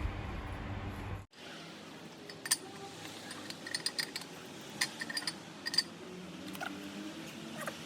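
Steady background hum that cuts off about a second in, followed by a scattering of light metallic clinks and taps as a new camshaft is fed into a Chevrolet 5.3-litre V8 engine block.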